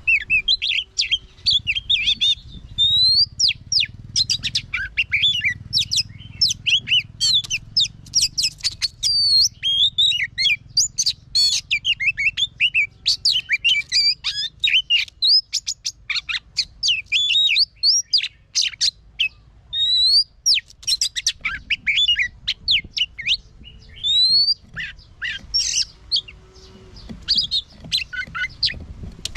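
Oriental magpie-robin singing a long, varied song of rapid whistles, rising and falling glides and chattering trills, with only brief pauses.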